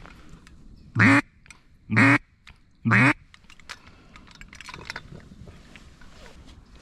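Mallard duck call blown by a hunter: three loud quacks about a second apart, calling to passing mallards.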